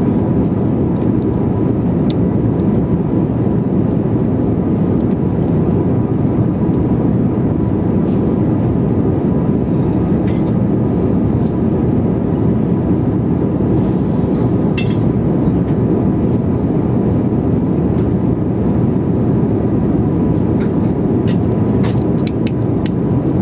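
Steady cabin noise of an airliner in flight: an even, low rush of engines and airflow, with a faint steady hum above it and a few small ticks.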